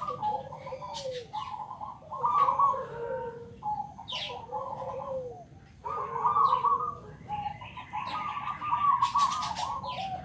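Zebra dove (perkutut) cooing over and over in quick phrases of arched notes, with brief pauses between phrases. A few short high chirps from another bird come through, one about four seconds in.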